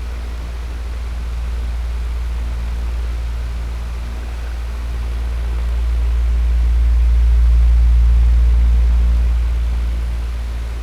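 Electric fan running: a steady low hum with an even airy hiss. It slowly swells and is loudest about three-quarters of the way through, then eases.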